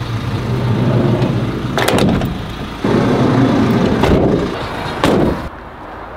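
A car engine running, getting louder just before three seconds in and dropping away near the end, with short sharp knocks about two and five seconds in.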